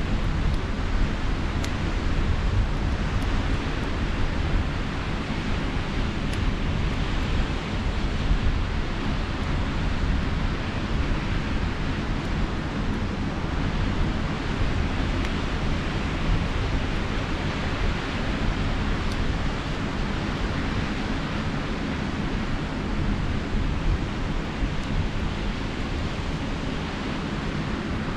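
Sea surf washing steadily on the shore, with wind rumbling on the microphone and a few faint crackles from a campfire.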